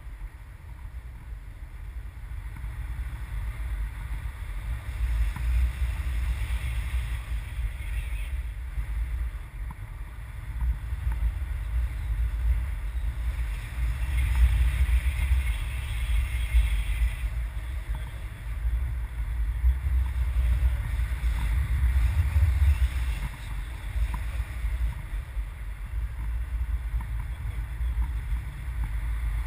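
Wind buffeting the microphone: a low rumble that swells and falls in gusts.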